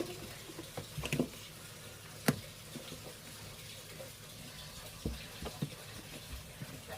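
Scattered light knocks and taps over faint water sounds while a fridge's freezer compartment is scrubbed out with warm water, a net scrubber and a dishwashing bar.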